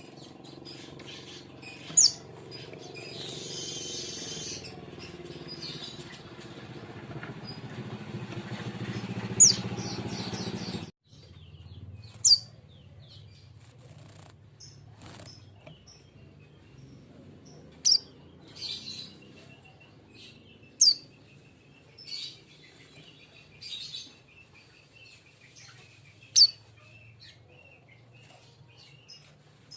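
A fledgling king konin bird giving short, sharp, high chirps that fall in pitch, about six of them a few seconds apart. For roughly the first ten seconds a low background noise swells under the chirps and then cuts off suddenly.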